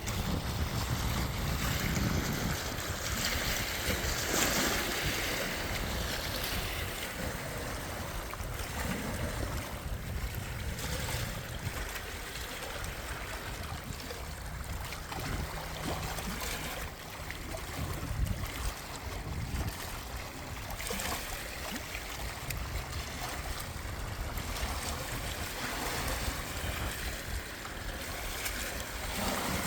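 Wind and water noise over a lake, with gusts buffeting the microphone in an uneven low rumble.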